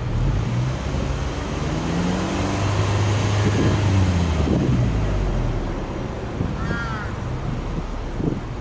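Subaru Impreza Sport 2.0i's flat-four boxer engine heard at the twin exhaust tips, revved up gradually and held, then settling back toward idle about five seconds in. A crow caws once near the end.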